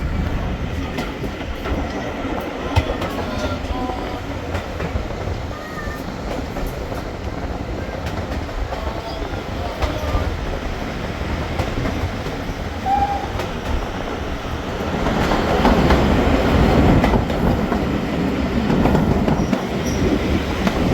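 Heritage train carriage on the move, heard from inside: a steady rumble of wheels on the rails with scattered clicks over the joints, growing louder about fifteen seconds in.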